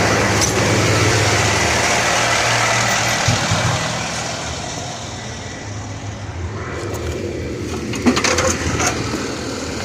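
Pierce ladder truck's diesel engine running with the aerial PTO engaged, over a steady hiss. The engine drops in level from about four seconds in, with a few clunks about three seconds in and around eight seconds.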